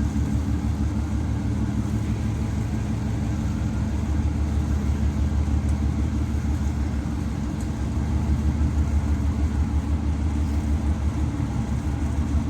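A large engine running steadily with a low, even throb, swelling a little about eight seconds in.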